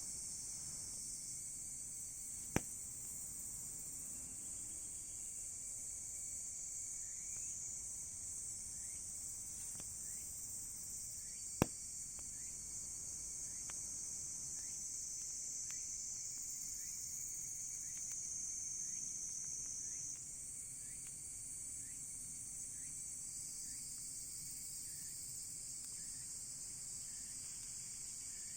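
Crickets chirring in a steady high-pitched chorus, with two sharp pops from the burning wood of the campfire, one a few seconds in and one about halfway.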